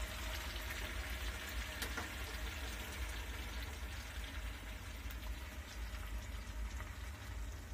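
Tomatoes, chillies, garlic and shallots sizzling gently in oil in a frying pan, a steady crackly hiss with a few faint pops, over a low steady hum.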